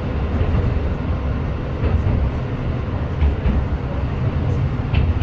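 Cabin sound of a KiHa 125 single-car diesel railcar: a steady low rumble from the engine and running gear, with a few faint light clicks.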